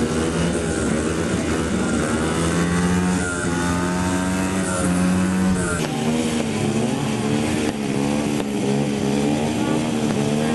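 Small single-cylinder four-stroke mini bike engine revving, its pitch rising and falling as the throttle is worked, with a shift in the engine note about six seconds in.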